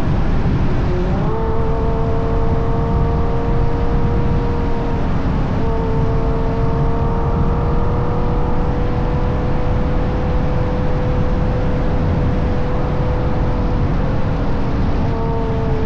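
Ferrari GTC4Lusso's 6.3-litre V12 with a Capristo exhaust pulling at steady cruise: its note rises about a second in, holds level, then dips briefly near the end. Heavy wind and road rumble on the outside-mounted microphone.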